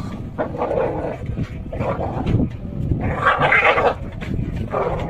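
A dog and a rooster fighting: four harsh animal cries, each under a second long, come at roughly even intervals.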